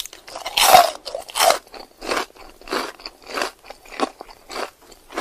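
Crunchy chewing of a raw green bean dipped in mayonnaise. There is a loud crunch a little under a second in, then steady chewing crunches coming a bit under two a second.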